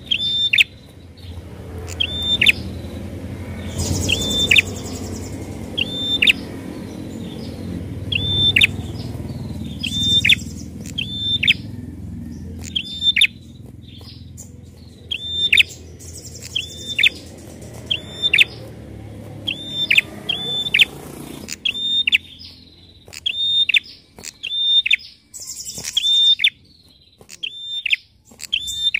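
A prenjak (prinia) calling over and over, each call a sharp high note that drops in pitch, roughly one a second, with bursts of higher chattering between. A low rumble runs underneath and fades out about two-thirds of the way through.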